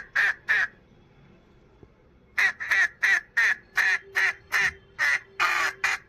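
Duck quacking: a quick series of short quacks, a pause of over a second, then a long, steady run of quacks at about three a second.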